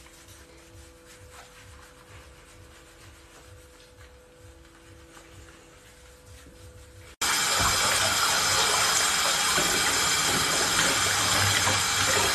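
A faint steady hum for about seven seconds, then the loud, steady rush of water running from a tap, starting suddenly.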